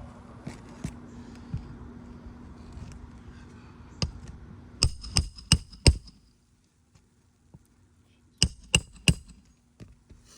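Roof snake shingle tool being struck with sharp, ringing metal blows, driven under asphalt shingles to reach the nails without lifting them: about five quick strikes in two seconds, then three more near the end.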